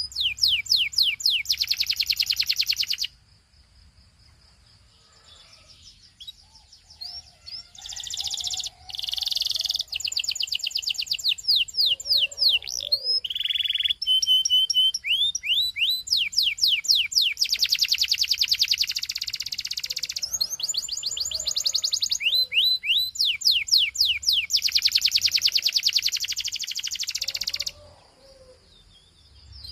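Belgian canary singing in long phrases: runs of quick, falling whistled notes repeated one after another, alternating with fast rattling trills. The song stops for about five seconds after the first few seconds, resumes, and falls quiet again near the end.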